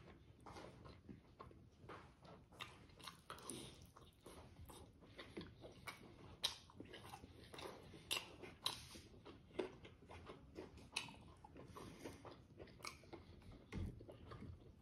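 A person chewing and biting boiled smoked pork and innards close to the microphone: a steady run of short, irregular mouth clicks and smacks.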